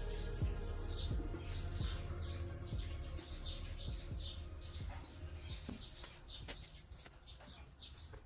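Small birds chirping repeatedly, about two to three short chirps a second, over a low hum that fades out in the first few seconds, with a few sharp clicks.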